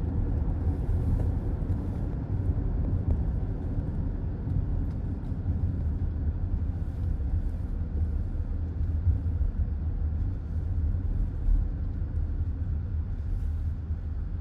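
Steady low rumble of road and tyre noise from a car driving along, heard from inside the cabin.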